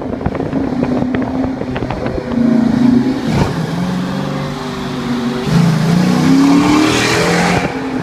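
Dodge Charger R/T's Hemi V8 revving through Flowmaster 40 mufflers with the resonators deleted. It rises to a short rev about two and a half seconds in and drops back, then climbs in a longer rising rev over the last couple of seconds.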